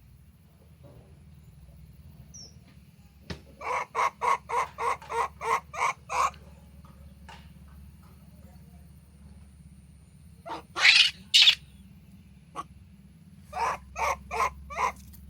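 Animal calling in repeated short calls: a run of about nine quick calls, roughly three a second, then two louder, longer calls, and four more short calls near the end.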